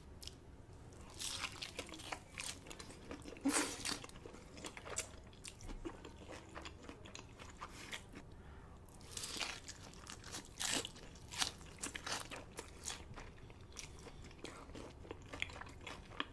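Close-miked crunching bites and chewing of crispy fried chicken, coming in irregular bursts of crunches, loudest about three and a half seconds in and again around nine to eleven seconds in.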